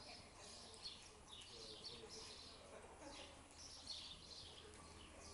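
Faint chirping of small birds: quick, high, falling chirps repeated over and over, over a low steady hum.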